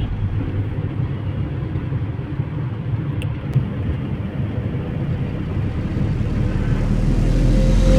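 Car cabin noise of a taxi on the move: a steady low engine and road rumble, with a single brief click about halfway through.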